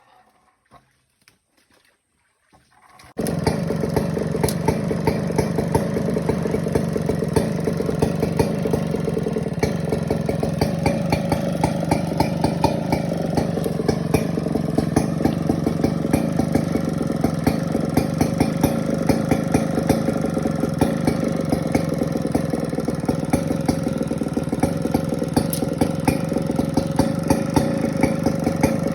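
After about three seconds of near silence, a chainsaw engine cuts in suddenly and runs steadily at one even speed, with a fast crackle of clicks over it.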